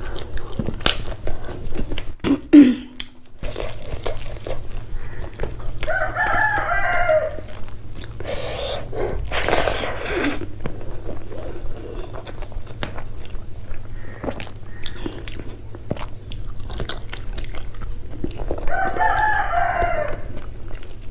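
Close-miked eating by hand: chewing, lip smacks and fingers working rice, with many small wet clicks. A rooster crows twice in the background, about six seconds in and again near the end.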